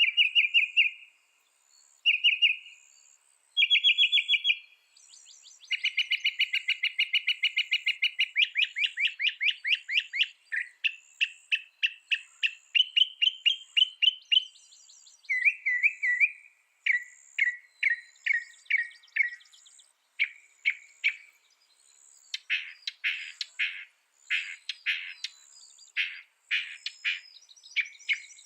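Mockingbird singing a long run of varied phrases, each repeated several times before switching to the next: clear whistled notes, rapid trills and buzzy rattles.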